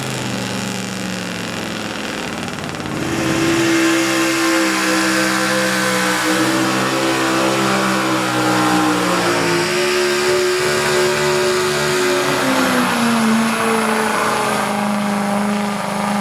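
A pulling truck's engine running hard under load, getting louder about three seconds in, with its pitch shifting up and then down a couple of times.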